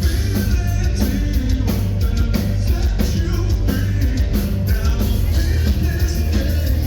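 Heavy metal band playing live, loud, with a steady drumbeat and singing.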